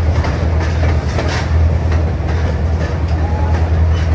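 Passenger train running through a tunnel, heard from on board: a steady low rumbling drone with the faint clatter of steel wheels on the rails.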